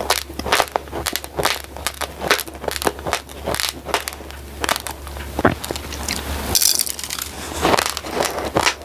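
Close-miked crunching of raw glutinous rice grains being chewed, a quick, irregular run of sharp crunches several times a second, over a steady low hum.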